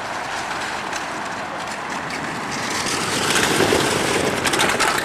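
Model stock cars rolling along a built track: a steady rolling rumble that grows louder over the second half, with a quick run of clicks near the end.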